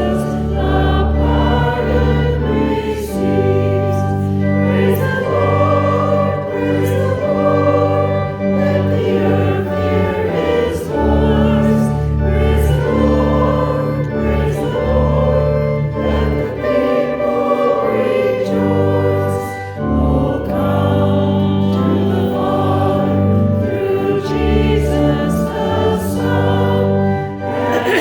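A choir singing a slow hymn over sustained instrumental accompaniment, the chords changing every second or two.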